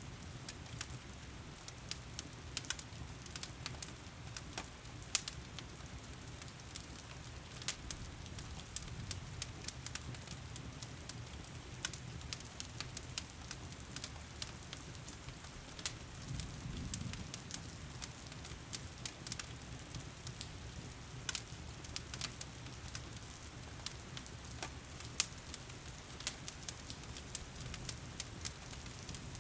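Wood fire crackling in a fireplace, with frequent irregular sharp pops, over the steady hiss of heavy rain and a low rumble.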